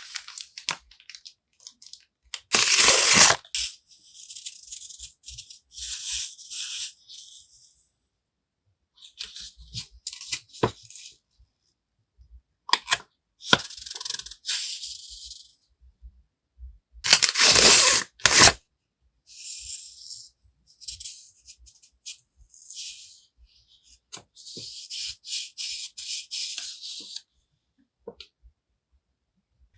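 Stationery packaging being handled: irregular bursts of crinkling and rustling, with two louder crackling bursts, one about three seconds in and one around seventeen to eighteen seconds in.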